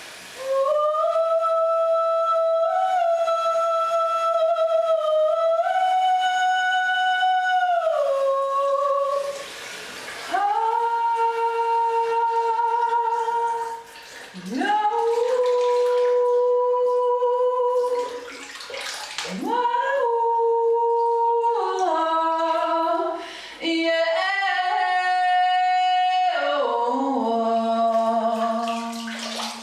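A woman singing long wordless held notes, one after another, with short breaths between phrases; the pitch slides between notes and drops to a much lower held note near the end.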